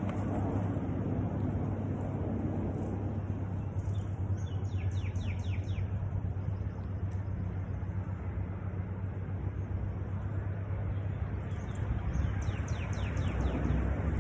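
Mini bike's small engine running steadily at an even speed. Twice a bird calls a quick run of short falling chirps over it.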